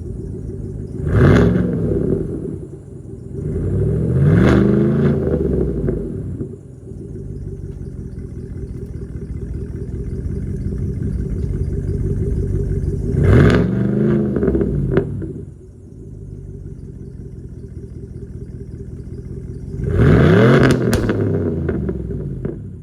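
2023 GMC Sierra 1500's 5.3-litre L84 V8 idling through a Borla muffler and 4-inch exhaust, revved four times, each rev rising quickly and dropping back to idle; the second and fourth revs are held a little longer.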